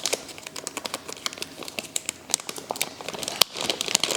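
Plastic packaging crinkling and rustling as a package is unwrapped, a run of irregular crackles with a sharper snap about three and a half seconds in.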